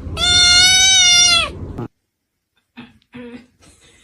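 A cat's long, loud meow at a level pitch, dropping at the end, the second of two such calls. The sound cuts off abruptly about two seconds in, and after that there are only faint brief sounds.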